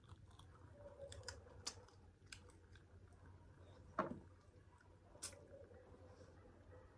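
Faint eating sounds: scattered soft clicks and taps of chewing and handling food, the loudest about four seconds in, over quiet room tone.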